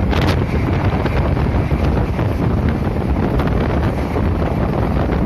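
Passenger train running at speed: a steady rumble of wheels and carriage with wind buffeting the microphone.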